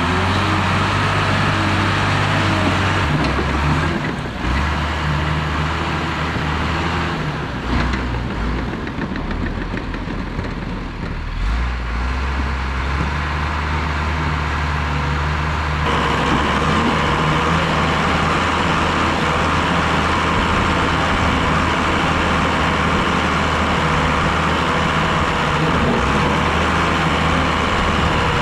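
Diesel engine of heavy earthmoving equipment running under working load. Its note steps up and down a few times, and the sound changes abruptly about halfway through.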